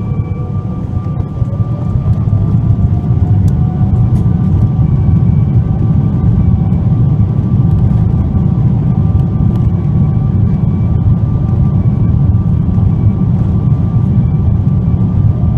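Boeing 777-200ER's GE90 jet engines heard from inside the cabin, spooling up over the first few seconds with a rising whine, then holding a steady, loud rumble with a constant fan whine at high thrust.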